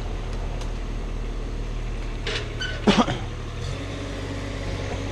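Heavy engine idling steadily with a low drone that drops slightly in pitch about three and a half seconds in. A couple of short, higher-pitched sounds break in around two to three seconds in.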